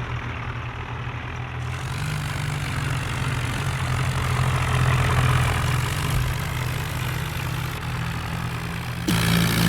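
Diesel tractor engine running with a steady low throb, growing louder through the middle; near the end the sound changes abruptly to a louder, hissier engine.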